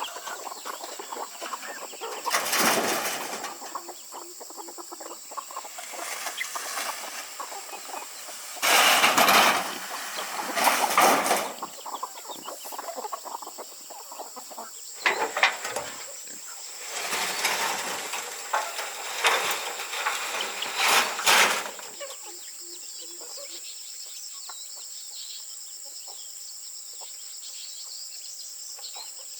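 Chickens clucking, with several short noisy bursts during the first twenty seconds. Insects chirp in a steady high drone underneath, and the drone carries on alone near the end.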